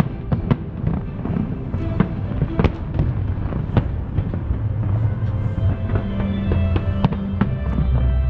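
Fireworks going off in a string of sharp bangs at irregular intervals, with music playing underneath.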